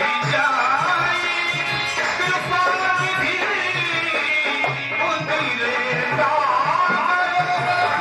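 Indian devotional music: a tabla keeps a steady rhythm under a wavering melodic line, with no clear words sung.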